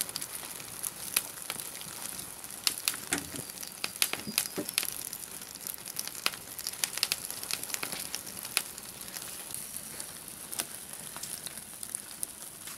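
Campfire crackling, with irregular sharp pops scattered through it over a steady high hiss.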